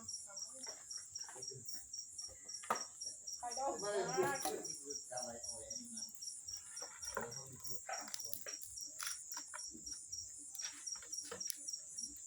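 Insects chirping in a steady high-pitched chorus of rapid, evenly repeating pulses, with faint distant voices briefly about four seconds in.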